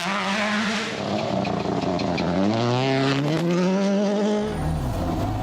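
Rally car engine at full song on a stage: the note drops as the car slows about two seconds in, then climbs steadily as it accelerates hard again.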